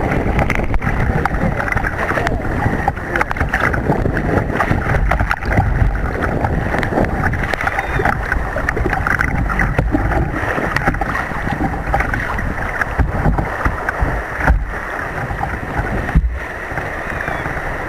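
Wind buffeting the microphone over a steady rush of surf and splashing water.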